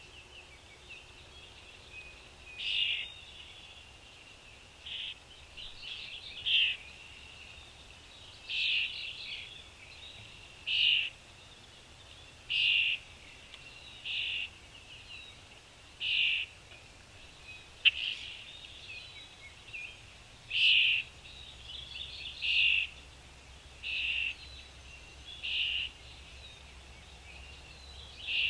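Birds calling, a short call repeating about every two seconds with softer chirps between. There is one sharp click about two-thirds of the way through.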